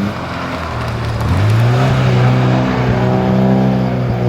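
Rally car engine approaching under hard acceleration. Its note climbs and grows louder about a second in, then holds high and strong.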